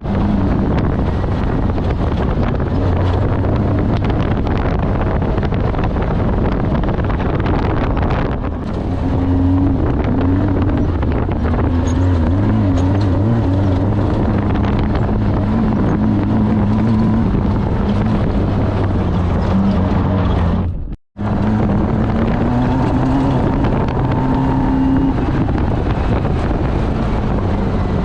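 Off-road race vehicle's engine running hard while driving, its pitch rising and falling with the throttle, over steady wind and road noise. The sound drops out abruptly for a moment about 21 seconds in, then carries on.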